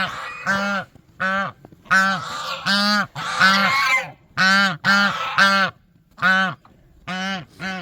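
Domestic geese honking: about a dozen short honks in quick succession.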